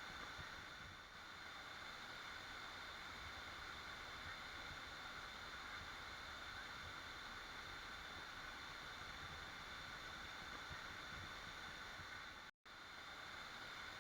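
Waterfall water falling in a steady, even rush, with one sudden split-second cut to silence near the end.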